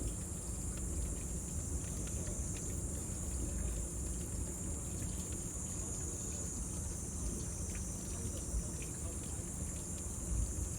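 Cicadas droning in a steady, high-pitched chorus, with a bonfire crackling faintly underneath and a low rumble.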